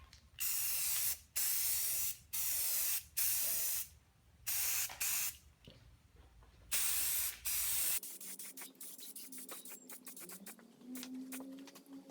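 Enamel spray paint hissing from a spray can in six short bursts, each about a second long, as a coat is laid on a cast-iron belt guard. After about eight seconds the spraying gives way to light scattered clicks and a faint hum.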